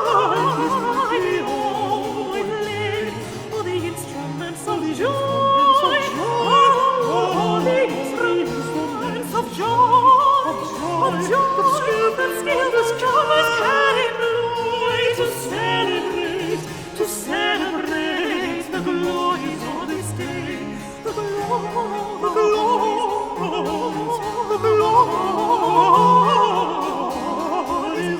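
Two alto voices singing a Baroque duet in long, running melismas that imitate each other, accompanied by cello and harpsichord.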